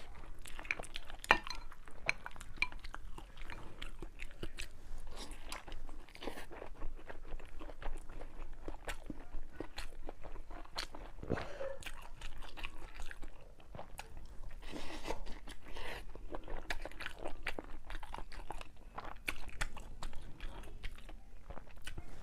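A person chewing and crunching a mouthful of food close to the microphone, with many small crisp clicks and crackles throughout.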